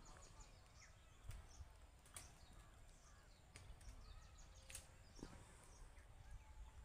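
Faint bird calls: many short, high chirps throughout, with a few sharp clicks and a low rumble underneath.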